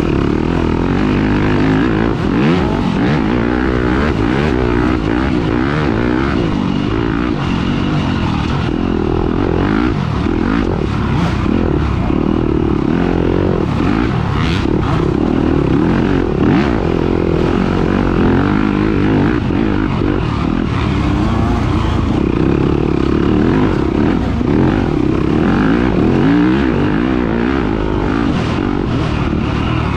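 Off-road dirt bike engine running hard in a race, its revs rising and falling continuously as the rider throttles and shifts.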